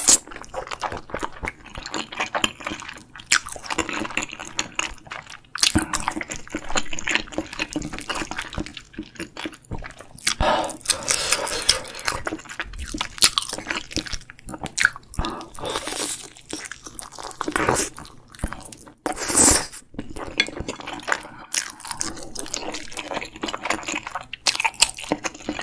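Close-miked eating: wet chewing and mouth smacks of tteokbokki rice cakes and soft fish cake, with irregular clicks and a few louder bursts along the way.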